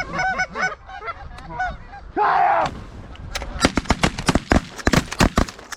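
Geese honking repeatedly, then one loud half-second call about two seconds in, followed by a rapid volley of shotgun blasts from several hunters firing at once, over a dozen shots in under three seconds.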